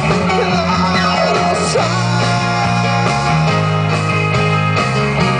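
Rock band playing a song, with guitars and bass under a sung vocal line that ends about two seconds in, followed by an instrumental passage.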